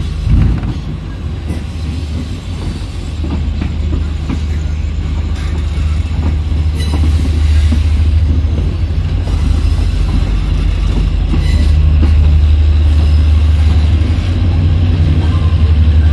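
Indian passenger train running along the track, heard from beside an open coach door: a loud, steady low rumble with faint clatter from the wheels, growing louder toward the middle.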